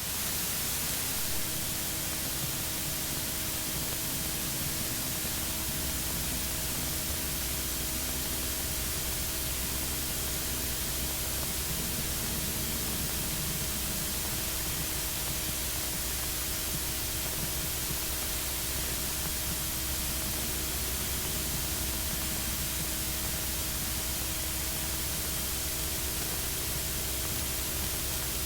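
Steady radio static hiss with a faint low hum: an air traffic control frequency open with no one transmitting.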